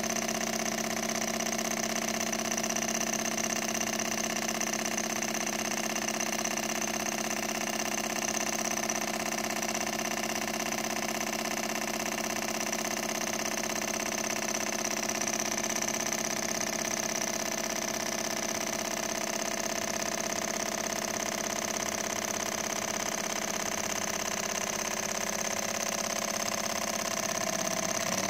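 Small model Stirling engine running steadily, an even mechanical hum.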